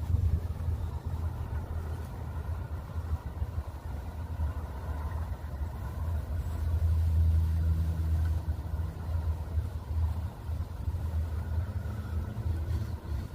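Low rumble of a vehicle running, with wind buffeting the microphone; it grows louder for a couple of seconds about halfway through.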